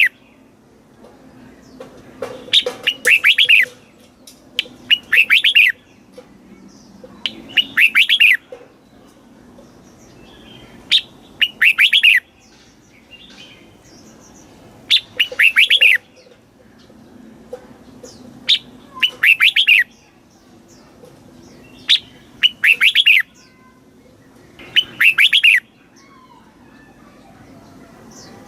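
Red-whiskered bulbul singing: short, loud phrases of quick gliding notes, each about a second long, repeated roughly every three seconds.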